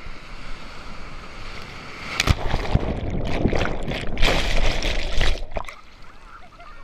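Ocean wave breaking and washing up the beach, building about two seconds in, loud for about three seconds, then falling away.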